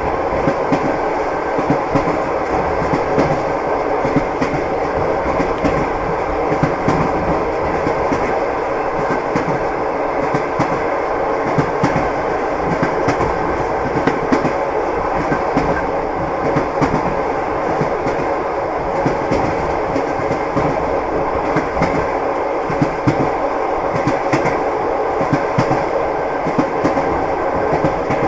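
Train wheels clacking over the rails with the steady rumble of a moving railway carriage, frequent sharp knocks over a continuous running noise.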